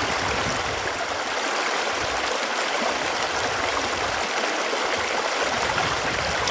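Running water, a steady unbroken rush like a flowing stream.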